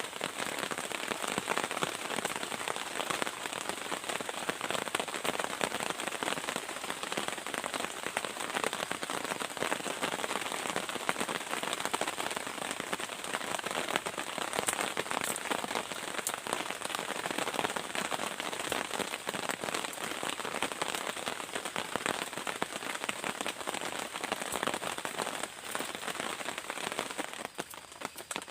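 Heavy rain falling in a dense, steady patter of drops, easing somewhat near the end.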